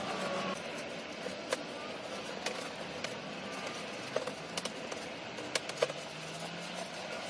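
A few sharp, light clicks scattered over a steady faint hiss.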